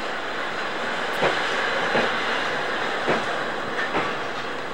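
Blue passenger coaches rolling past close by: a steady rumble of the train with several sharp, irregular clacks of wheels over rail joints.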